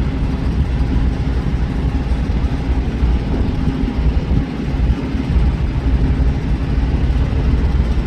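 Truck engine and road noise while driving: a steady low rumble with no change in pace.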